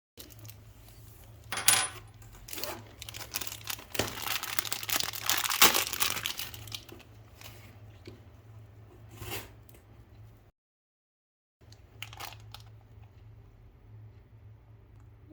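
Plastic packaging being torn open and crinkled, in irregular bursts, loudest about two seconds in and again from about four to six seconds in. The sound cuts out completely for about a second around two-thirds of the way through.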